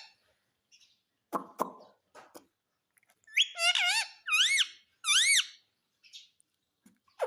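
Indian ringneck parrot calling: three high, wavering calls in quick succession past the middle, after a shorter, lower sound near the start.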